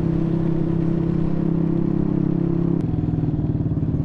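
Motorcycle engine running steadily at low speed, heard from the rider's seat. A little before three seconds in, the sound changes abruptly to a pulsing, lower-revving engine beat.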